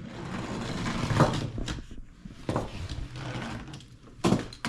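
Toy monster trucks clattering on a plastic playset ramp: a rolling rush for about two seconds, then several sharp plastic knocks, the loudest near the end.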